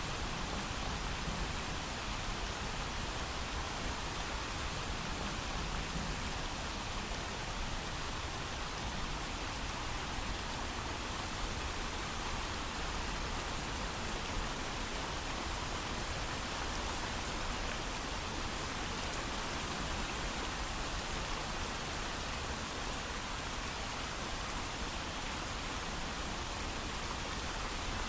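Steady heavy rain with no thunder, an even, unbroken hiss of falling rain.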